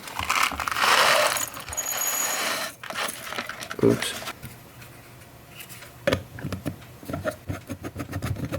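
Whole peppercorns poured into the glass body of a pepper grinder, a dense rattling hiss for nearly three seconds. This is followed by scattered small clicks and taps.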